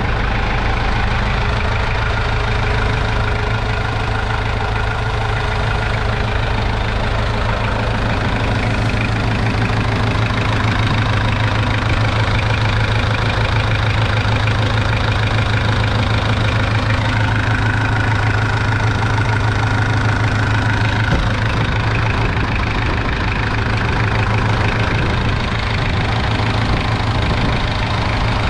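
1960 Massey Ferguson 130 vineyard tractor's 1.8-litre four-cylinder diesel engine idling steadily.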